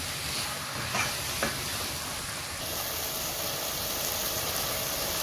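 Chicken pieces with onion and turmeric sizzling in a pan as they fry in oil and their own juices, stirred with a wooden spatula; a steady frying hiss with a couple of short knocks about a second in.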